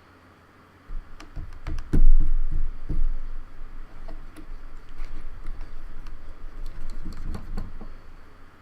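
Keys of a Logitech K360 keyboard being pressed and clacked irregularly for about seven seconds, with some dull low thumps among the clicks, as keys that had been sticking are worked.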